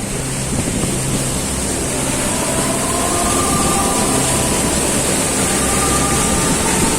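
Waterfall rushing steadily: a loud, even roar of falling water.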